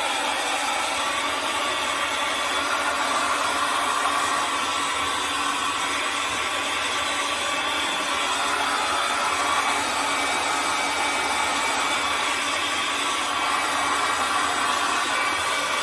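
Handheld hair dryer blowing steadily, used to melt thick ice frozen solid inside a refrigerator compartment.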